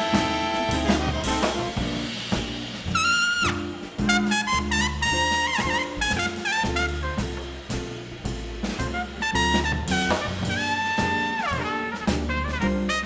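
Swing band playing live: a horn line with long held notes that fall off in pitch, over walking upright bass and drums.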